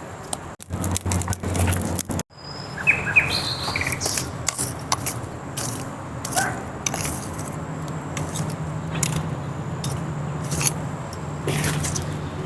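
A few short bird chirps about three seconds in, over scattered clicks and a low steady hum.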